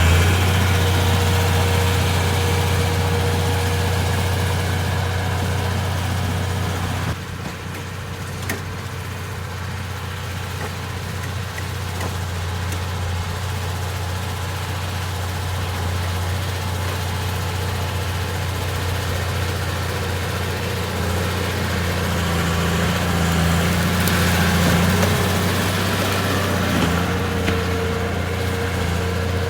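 Komatsu D31P bulldozer's diesel engine running steadily with a low hum. It drops in level abruptly about seven seconds in, then slowly builds back up.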